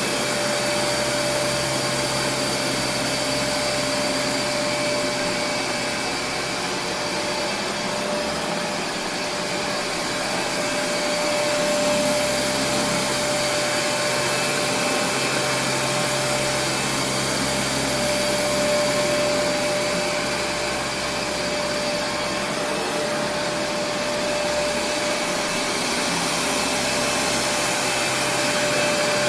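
Kenmore Progressive DirectDrive upright vacuum cleaner, a Panasonic-built model with its brush motor inside the roller, running steadily: a rush of air with a steady whine over it.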